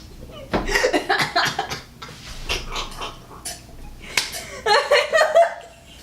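A series of sharp hand smacks, several in quick succession. A short voiced outburst comes near the end.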